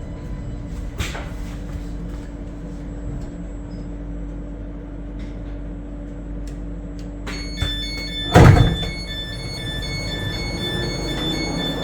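Class 484 electric train running with a steady low rumble and hum. About seven seconds in, a repeating electronic beeping starts, and a loud thud follows about a second later.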